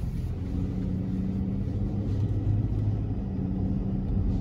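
Engine and road noise of a fire department command vehicle, heard from inside the cabin as it drives off from an intersection: a steady low drone.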